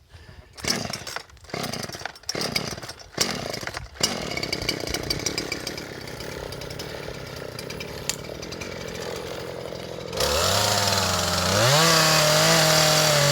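Gas chainsaw being started with several quick cord pulls, catching about four seconds in and running at a low idle, then throttled up hard about ten seconds in, its pitch rising and then holding high.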